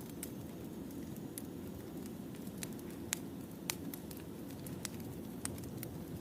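Wood fire crackling: a steady low rumble with irregular sharp pops and snaps, the loudest two about three and three and a half seconds in.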